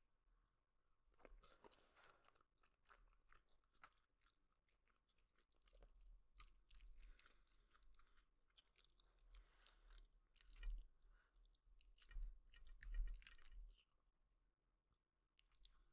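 A person chewing a mouthful of noodles close to the microphone: soft, irregular wet mouth clicks and smacks, faint overall, with a few louder bursts a few seconds before the end.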